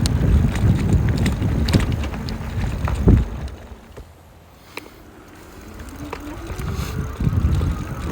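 Jasion EB7 e-bike riding over a bumpy dirt road: low rumble with wind on the microphone and scattered rattles, and a sharp knock about three seconds in. The noise then dies down for a couple of seconds and builds again with a faint rising whine.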